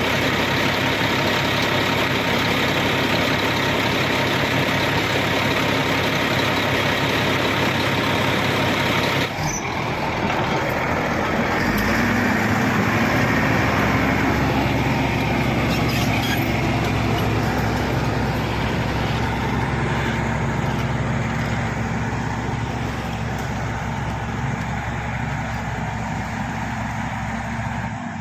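Shantui SD16 bulldozer's diesel engine running steadily. The sound changes abruptly about nine seconds in, then carries on at a similar level.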